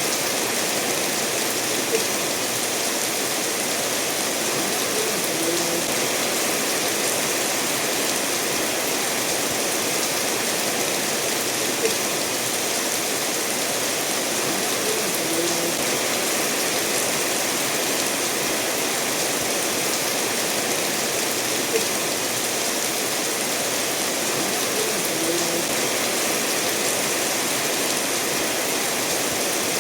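Steady rain falling together with a stream flowing over stones: an even rushing hiss, with a few small drips and ticks that come about every ten seconds.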